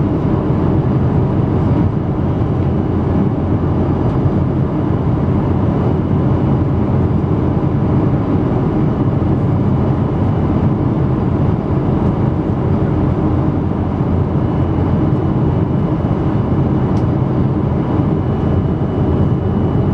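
Steady cabin noise inside a Boeing 777-200 airliner: a constant rush of jet engines and airflow, with faint steady hums above it.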